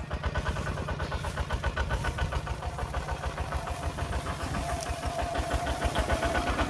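Tractor engine running with a steady, rapid chugging.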